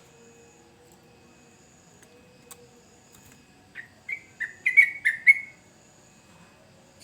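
Yellow-vented bulbul (trucukan) singing: a quick, loud run of short bubbling notes about four seconds in, after a few seconds of only faint background.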